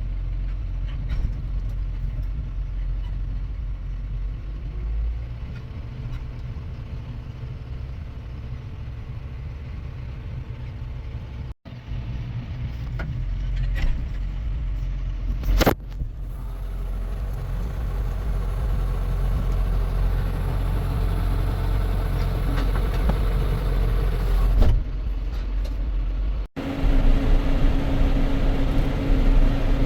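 Heavy farm machinery's diesel engine running steadily with a deep drone, in a few cut-together stretches, with a short sharp noise about 16 seconds in.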